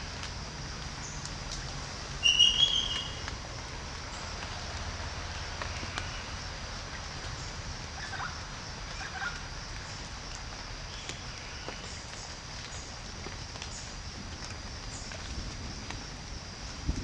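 A short burst of bird calls about two seconds in, over a steady hiss, with a few fainter chirps later.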